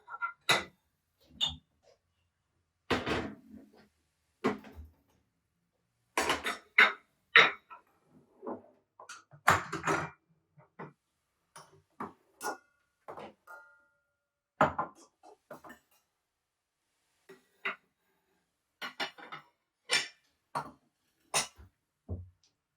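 Household handling sounds: a scattered run of clinks, taps and clatters, like dishes and utensils being set down and moved, with short silent gaps between them and a brief ringing clink about halfway through.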